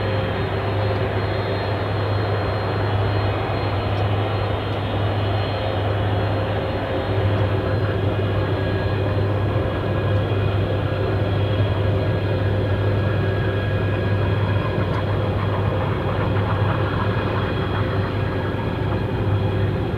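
Lockheed C-5M Super Galaxy's four turbofan jet engines running steadily: a continuous rush with a deep hum under it and a few steady whining tones above.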